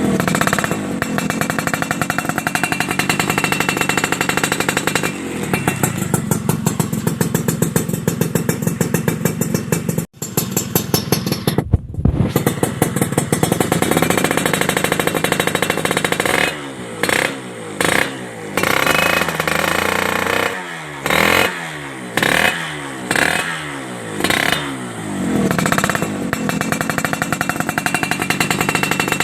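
Suzuki Satria motorcycle engine revving through a WRS racing exhaust, held at high revs for several seconds, cutting out briefly about ten seconds in, then blipped repeatedly with short rising-and-falling revs before settling into a held rev again near the end.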